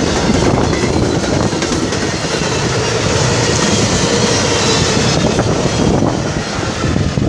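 Train passing close by: a loud, steady rumble and clatter of steel wheels on the rails.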